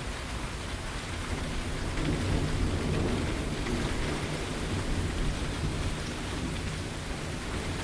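Steady rain falling, with a low rumble of thunder that builds about two seconds in, peaks shortly after, and fades away toward the end.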